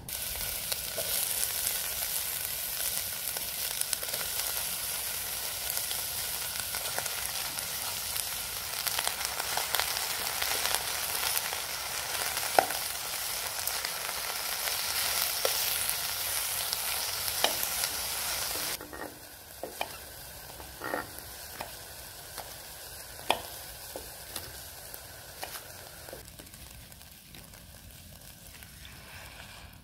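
Sliced onion and shimeji mushrooms frying with a steady sizzle in an aluminium camping pot on a gas stove, with metal tongs clinking against the pot as they are stirred. About two-thirds of the way through the sizzle drops off sharply, leaving a quieter sizzle and a few clinks.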